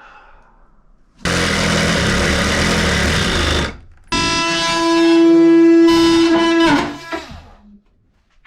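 A power tool runs in two bursts: first a rough, noisy stretch as it works into material, then a steady high whine that drops in pitch and fades as the tool winds down near the end.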